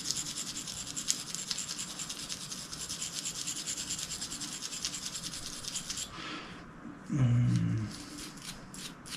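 A stiff brush scrubbing a small metal shotgun part, the bolt catch, in fast short back-and-forth strokes that stop about six seconds in. A few light clicks of handling follow near the end.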